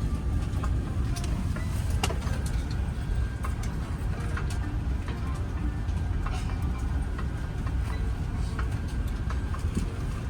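Cabin noise of an Airbus A350-1000 taxiing after landing: a steady low rumble with scattered clicks and rattles, including a sharp click about two seconds in.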